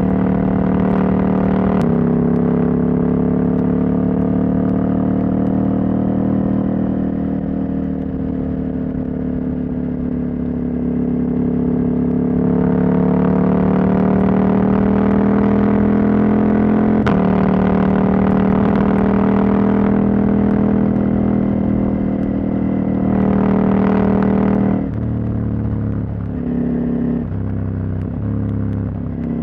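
Husqvarna Norden 901's parallel-twin engine, its catalytic converter removed, under way on the road. The engine note rises and falls with the throttle, with sudden pitch changes about 2 s and 17 s in. Near the end the throttle closes and the note drops and turns uneven.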